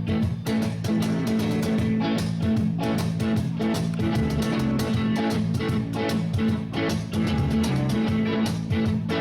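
Live rock band playing an instrumental passage: guitar and bass over a steady drum beat.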